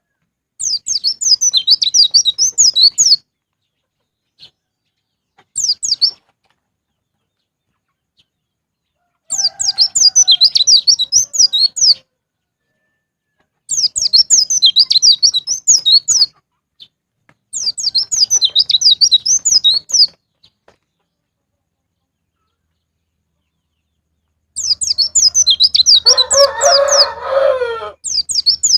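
White-eye (pleci) song: bursts of rapid, high twittering chirps, each a couple of seconds long, six times with silent pauses between, one of them very short. Near the end a lower, longer call from another bird sounds under the twittering.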